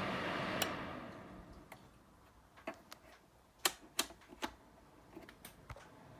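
Russell Hobbs fan heater blowing with a steady whoosh that dies away about a second in, followed by a scattering of sharp, irregular clicks and taps.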